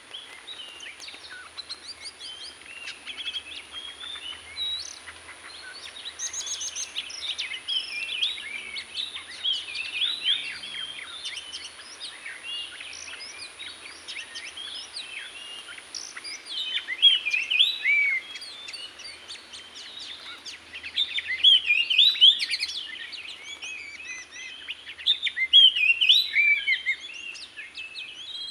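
Oriental magpie-robin (kacer) singing: a run of rapid, varied whistled phrases that grows louder in the second half. A steady thin high-pitched whine sits behind it and stops about halfway.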